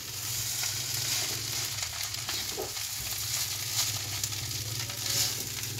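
Fried rice sizzling in a hot wok, with a metal spatula scraping and stirring through it. A steady low hum runs underneath.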